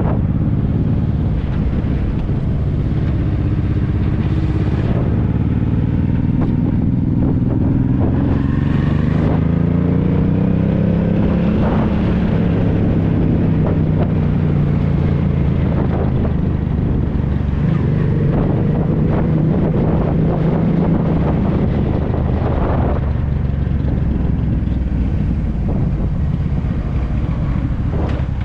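Honda NT650V Deauville's V-twin engine running through an aftermarket Dominator exhaust while riding. It rises in pitch as the bike accelerates from about four seconds in to about twelve, then holds a steady cruise.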